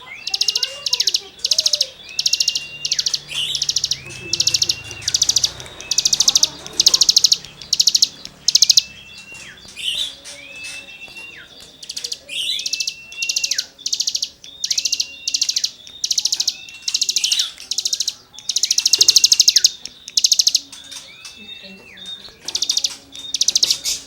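A cigun songbird singing in full voice: a string of loud, rasping, buzzy phrases about once a second. Between them come short whistled notes that rise, hold, then drop.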